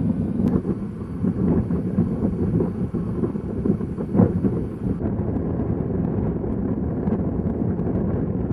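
Strong wind buffeting the microphone: a loud, low, uneven rumble.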